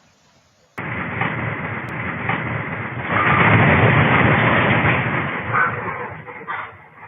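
Earthquake caught on a home or phone recording: a loud, low rumbling roar that starts abruptly just under a second in, swells about three seconds in and thins out toward the end, with a few knocks.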